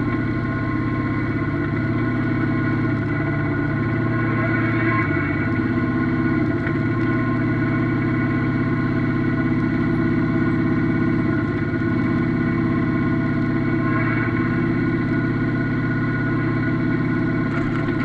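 Yanmar F16D mini tractor's diesel engine running steadily, its pitch holding nearly constant with only slight shifts.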